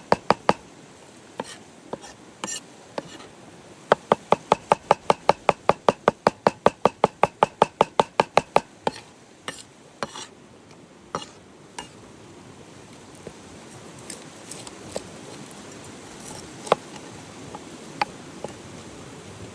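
Quick, regular knocks of food preparation, about three or four a second, in a short run at the start and a longer run that stops about nine seconds in. After that come a few scattered single clicks and knocks.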